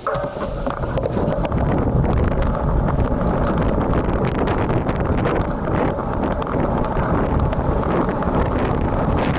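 Strong wind buffeting an action camera's built-in microphone while riding a road bike in typhoon wind and rain: a dense, fluttering rumble that comes on suddenly and then holds steady.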